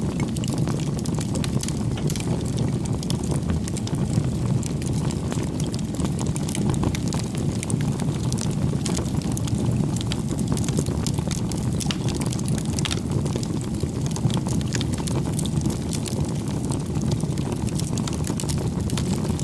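Bonfire burning: a steady low rumble of flames with frequent small crackles and pops scattered throughout.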